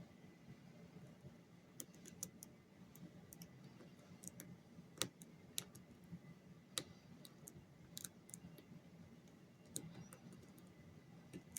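Faint, irregular small metallic clicks of a lock pick and tension tool working the pins inside a lock during picking, over a low steady hum.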